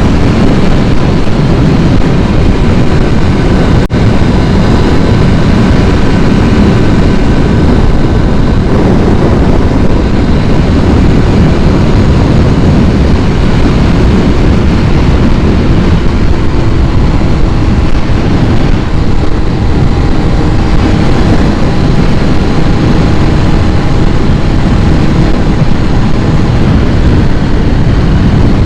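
2001 Kawasaki ZX-6R's carbureted inline-four engine running steadily after a cold start, loud and unbroken, with one brief dip about four seconds in.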